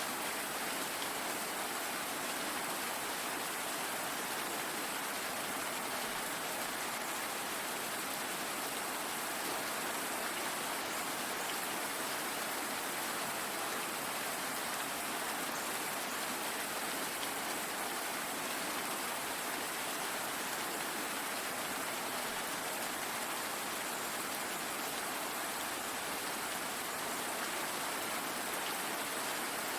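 Steady rainfall: an even hiss of rain with fine, scattered drop patter on a surface, unchanging throughout.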